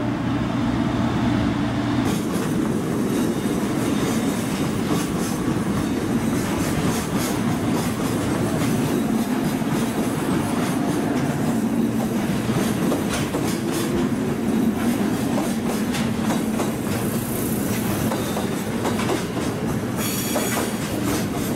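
A 783-series limited-express electric train pulls away from the platform and rolls past, its wheels clacking over the rail joints. Its wheels squeal briefly near the end.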